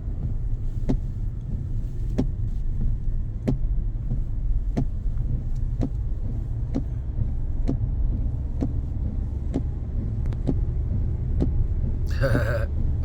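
Steady low rumble of a road vehicle heard from inside the cabin, with a faint sharp tick about once a second. A brief voice-like sound comes near the end.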